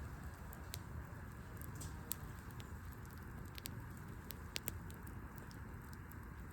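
Wood fire crackling: scattered sharp pops and snaps over a steady low background, with the loudest pop about two seconds in and a quick pair of pops a little past the middle.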